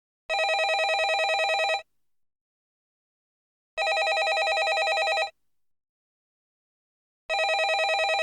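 Landline telephone bell ringing: three rings of about a second and a half each, each with a fast trill, separated by about two seconds of silence. The third ring starts near the end.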